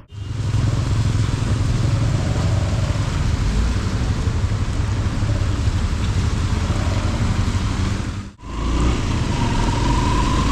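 Road traffic noise: a heavy, steady low rumble of vehicles with a hiss of rain and wet road, dropping out for a moment about eight seconds in.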